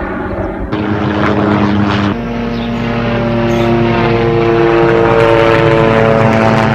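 Tour helicopter flying low overhead: a loud, steady drone of rotor and engine tones. The sound changes abruptly about a second in and again about two seconds in, as one flyover recording is cut to the next.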